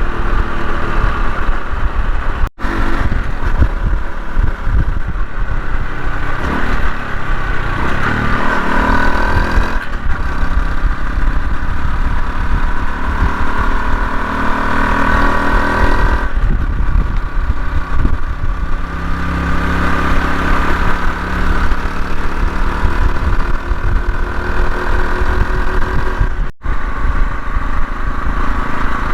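Honda CT125 Hunter Cub's single-cylinder engine running on the road, its pitch rising and falling with speed, under heavy wind buffeting on the microphone. The sound cuts out for an instant twice, early and near the end.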